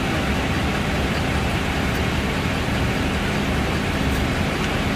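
Steady low hum of an idling police vehicle engine, with an even hiss over it and no change in level.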